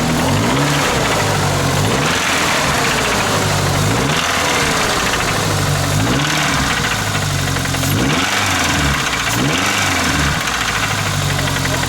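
Pickup truck engine with a knock, revved up and dropped back to idle about six times in quick blips.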